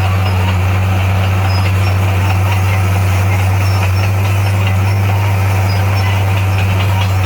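D58A bulldozer's diesel engine running steadily at a constant pitch, with a strong low hum.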